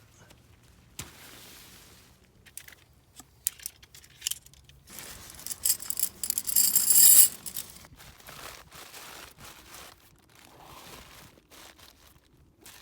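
Camping gear being handled and packed: rustling and crinkling of bags and fabric with small clicks and clinks, and a loud tearing rasp about halfway through.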